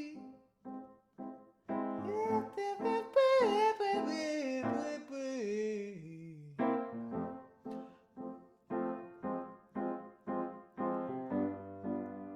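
Instrumental break in a song: a keyboard plays short repeated chords, about two a second, under a wavering melody line that slides downward in the middle. A longer held chord with a low bass note comes in near the end.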